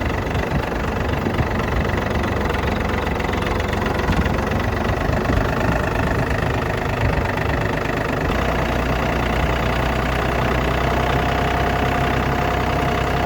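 Engine idling steadily, its low hum settling into a fuller, even drone about eight seconds in.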